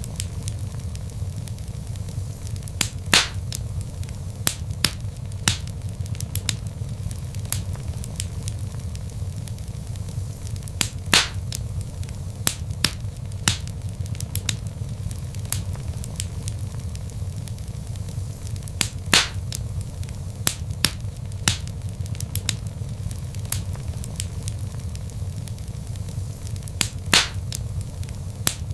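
Wood log fire crackling: frequent sharp pops and snaps over a steady low rumble of burning, with four louder pops about eight seconds apart.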